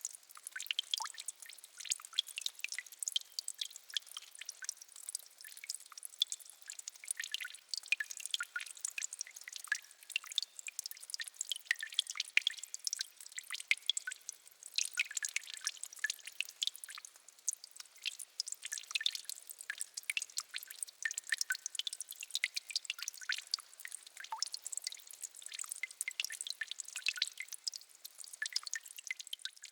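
Water dripping at the edge of a peat bog: many small, quick drips and ticks, dense and irregular, with no low rumble under them.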